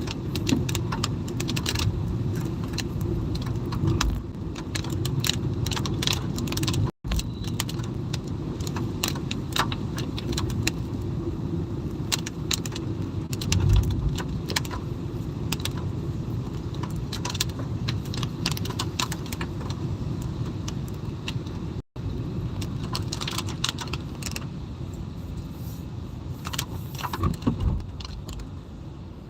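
Raindrops tapping on a moving car's windshield and roof, a steady patter of irregular sharp clicks over the low rumble of the car on the road.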